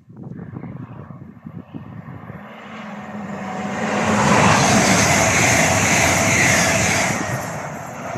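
Passenger train passing through the station at speed: a rush of wheel and air noise that swells over a few seconds, holds, then eases off.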